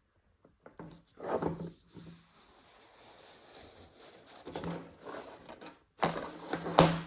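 Hands handling a Blu-ray case and its cardboard packaging: rustling and soft knocks in three bursts, the loudest near the end.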